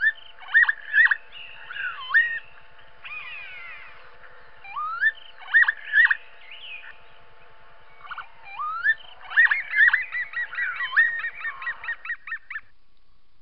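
Bird calls: a string of rising whistled notes, with a fast chattering run of short notes near the end.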